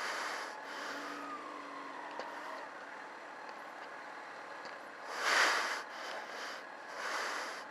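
Wind and road noise on the microphone while riding a Yamaha FZ6 sportbike. It swells into a louder rush about five seconds in and again near the end.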